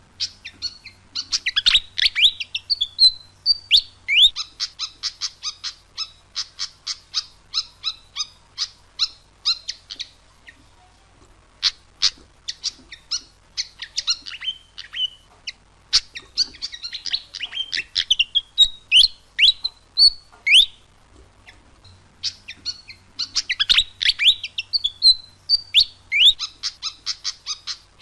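Malaysian pied fantail singing: rapid runs of sharp, squeaky chattering notes mixed with short rising whistles, in phrases several seconds long separated by brief pauses.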